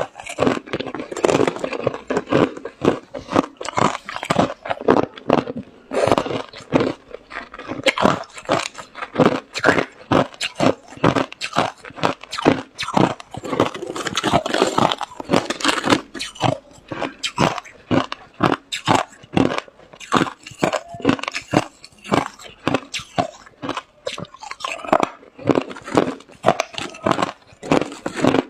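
Ice being bitten and chewed: a continuous run of sharp crunches, several a second.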